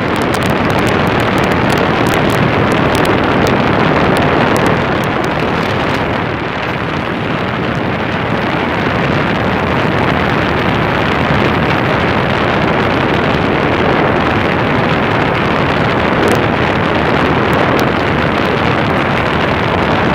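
Air conditioner's condenser fan, driven by a Protec fan motor, running and blowing a strong, steady rush of air across the microphone, with scattered sharp ticks from water droplets.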